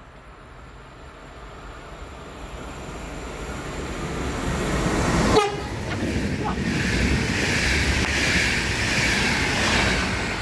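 Train passing through the station. Its noise builds steadily as it approaches, jumps sharply as it reaches the spot about five seconds in, then holds as a loud steady rush of wheels on rail.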